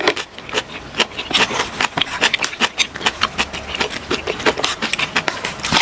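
Close-miked eating sounds: chewing with a quick, irregular run of small wet clicks and crunches, mixed with wooden chopsticks working ramen noodles in a plastic container.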